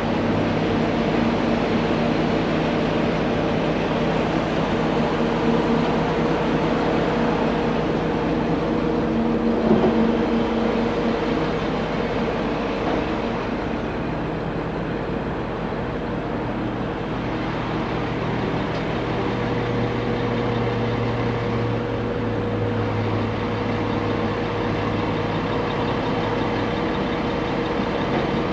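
A large truck's engine running steadily at low speed as the truck is maneuvered into position.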